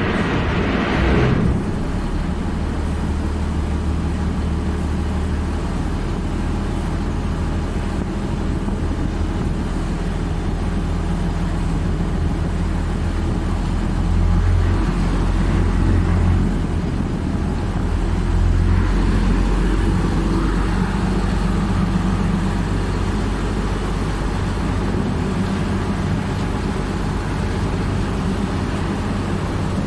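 An engine running steadily with a low drone, swelling slightly twice around the middle.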